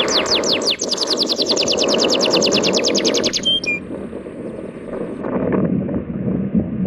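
A bird sings a fast trill of high, falling notes, about nine a second, over the steady wash of sea waves. The trill stops a little over three seconds in, after which two short whistles sound and then only the surf is left.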